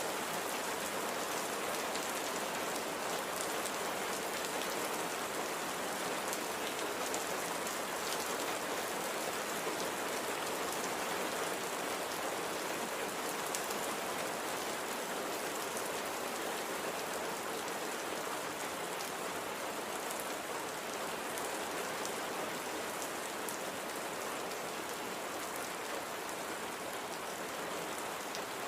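Steady light rain falling, an even hiss of drops with faint scattered pattering.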